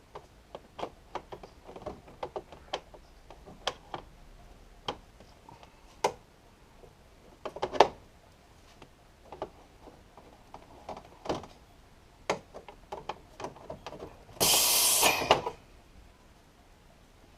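Scattered clinks and knocks of tools and metal parts being worked in a car's engine bay, then a loud rushing burst about a second long near the end.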